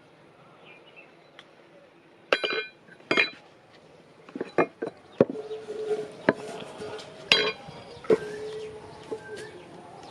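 Steel struck with a hammer: a series of irregularly spaced, ringing metallic clangs, the loudest three about two, three and seven seconds in.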